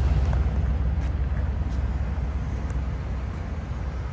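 The 1990 Cadillac Brougham's 5.7-litre V8 idling: a steady low exhaust rumble heard from beneath the rear of the car, growing a little fainter.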